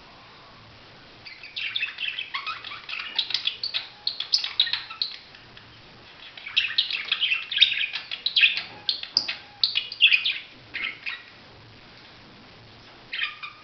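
Budgerigar chattering: two long runs of quick, warbling chirps with a pause between, and a short burst near the end.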